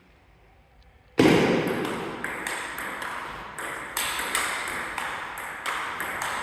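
Table tennis rally: a celluloid-type ball clicking sharply off the table and the players' bats in quick alternation, about three hits a second. It starts abruptly about a second in, after a near-quiet moment.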